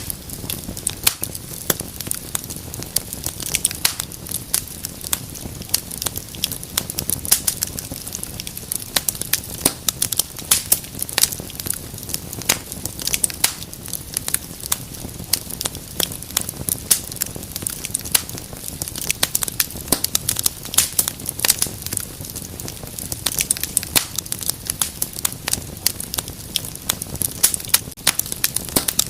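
Wood fire burning in a fireplace, crackling and popping with many irregular sharp snaps over a steady low rumble of flame.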